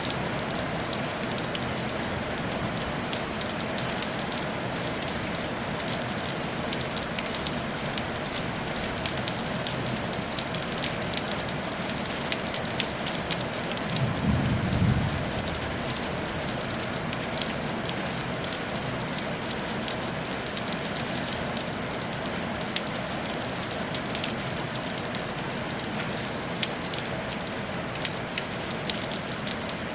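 Steady rain falling on a tile roof, a dense patter of individual drops over a constant hiss, with a brief low rumble about halfway through.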